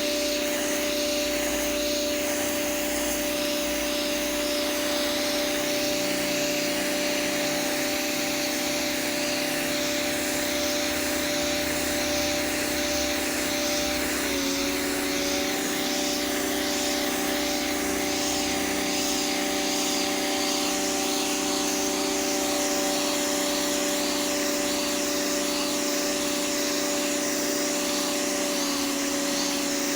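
Electric high-pressure washer running steadily, its motor whining over the hiss of the water jet spraying the pavement. The motor's pitch dips briefly twice, about halfway through and near the end.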